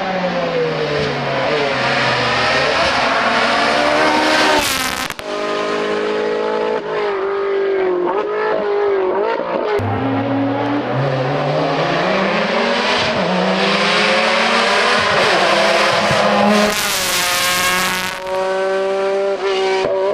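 Hillclimb race car engine revving hard, its pitch climbing and dropping again and again with gear changes and lifts for corners. Two brief loud rushing bursts cut through, about five seconds in and again later on.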